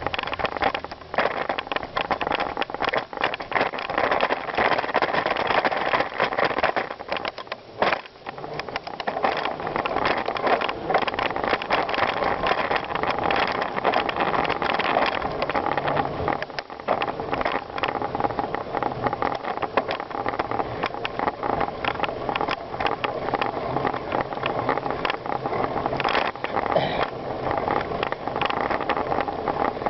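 Bicycle being ridden over rough ground: steady tyre noise with frequent rattles and knocks, briefly quieter about eight seconds in.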